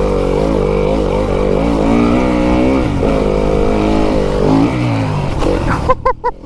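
Fantic enduro dirt bike's engine under riding load, its note rising and falling as the throttle is worked around the track. Near the end the engine note breaks off and the sound turns uneven.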